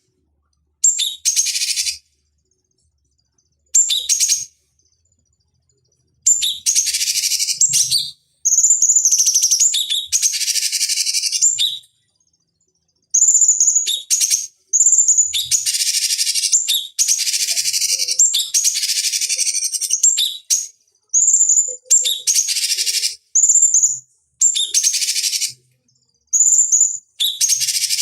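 Cucak cungkok song: repeated bursts, each opening with a short clear high note and running into a harsh, rasping chatter lasting half a second to three seconds. The bursts are separated by abrupt silent gaps, longer in the first few seconds and then coming almost back to back.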